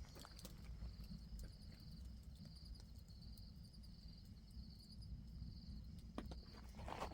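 Faint insects chirping in a steady, pulsing high trill over a low rumble, with a few short knocks near the end.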